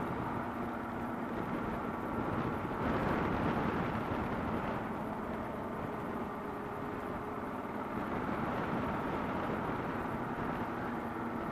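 Kawasaki KLR650's single-cylinder engine running steadily under way, mixed with steady wind and road noise.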